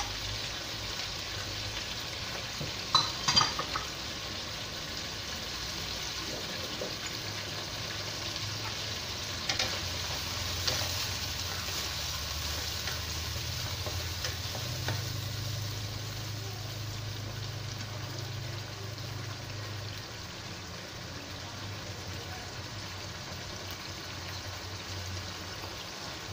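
Prawns in a sauce of soy, oyster, tomato and chili sauces sizzling and bubbling in a wok, with a spatula stirring and scraping the pan. A quick cluster of sharp clinks about three seconds in is the loudest moment, with a few lighter ones later.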